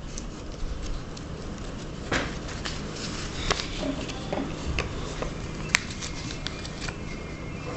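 Paper rustling and crackling as a sheet is handled and creased into origami folds, with scattered small clicks, the sharpest about three quarters of the way through, over a steady low hum.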